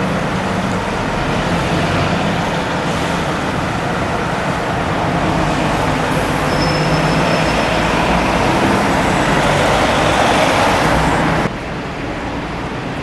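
Road traffic with a bus's diesel engine running close by, growing louder, then dropping suddenly about eleven and a half seconds in.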